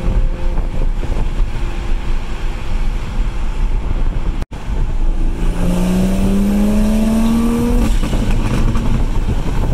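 Toyota Supra MKV's turbocharged engine heard from inside the cabin, first running steadily while cruising, then, after an abrupt cut, accelerating with its pitch rising for about two and a half seconds before it eases off.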